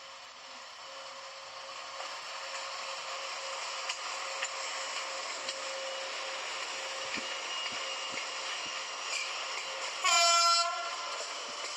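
A train running through the station, its steady rail and wheel noise building over the first couple of seconds, then one short blast of the train horn about ten seconds in, the loudest sound.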